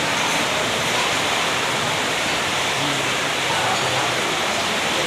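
A steady rushing noise at an even level, with faint voices underneath.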